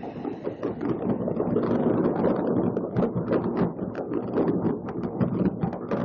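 Many fireworks going off at once across a city, a dense continuous barrage of pops and crackles with no gap, over a steady low rumble, with wind on the microphone.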